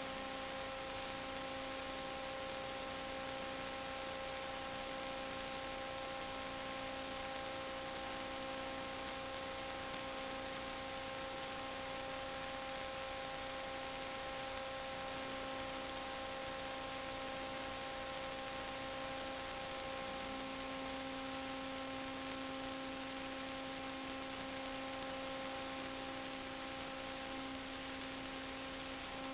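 Steady electrical hum with hiss: several steady tones held over an even noise floor, with no change and no other sounds.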